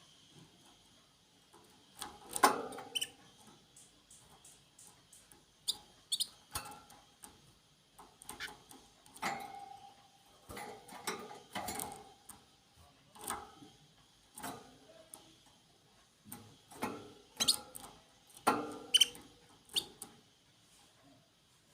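Small birds moving about: irregular sharp clicks, taps and short scuffles, about a dozen spread through, loudest around the middle and near the end.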